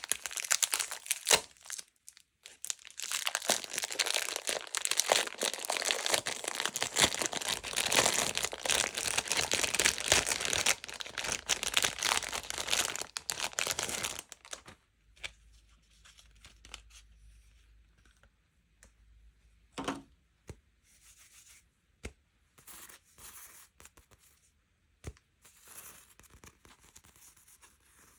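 Packaging being torn open and crinkled by hand, dense and crackly for about ten seconds, then giving way to quieter, scattered handling sounds with one sharp click.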